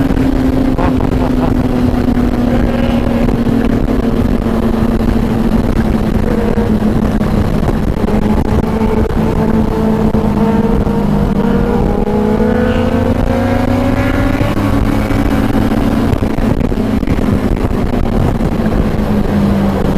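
Motorcycle engine running steadily under way, its note slowly dropping, climbing again about two-thirds of the way through, then easing off.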